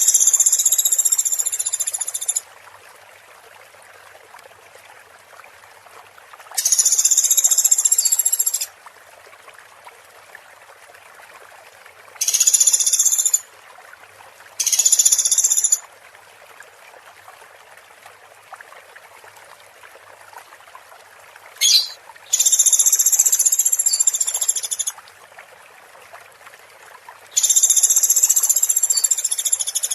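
Masteran recording: high buzzy trills in loud bursts of one to two and a half seconds, about seven of them, over the steady sound of running water.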